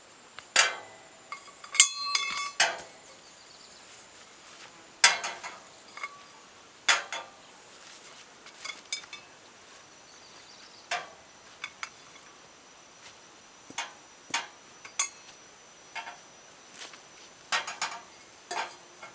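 Scattered clicks and knocks of hard objects being handled, with one ringing metallic clink about two seconds in.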